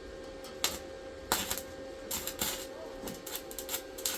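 A series of irregular sharp clicks and light taps, about a dozen, coming faster in the second half, over a faint steady hum.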